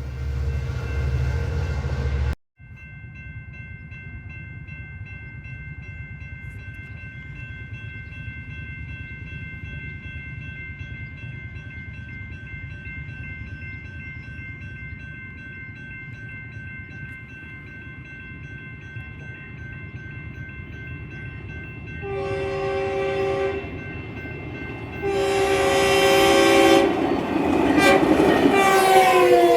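Locomotive multi-chime air horn sounding three blasts as a train approaches: two long blasts, then a third whose pitch drops as the train passes. Before the horn there is a steady high-pitched ringing tone over a low rumble.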